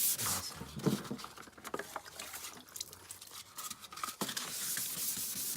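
Scattered light knocks and rustles of handling, then about four seconds in, 120-grit sandpaper starts rubbing steadily by hand across a cloudy plastic headlight lens to take off the oxidised surface.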